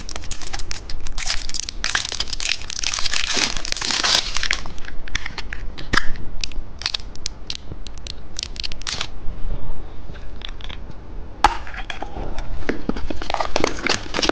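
Plastic candy packaging crinkling and crackling as it is handled and opened, with a run of sharp clicks and snaps in the middle.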